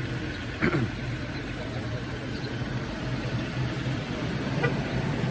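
A steady engine-like idling hum, with a short falling sound about half a second in.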